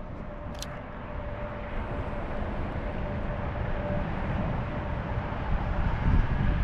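Wind rumbling and buffeting on the microphone outdoors, a low steady rush that slowly grows louder, with a single sharp click about half a second in.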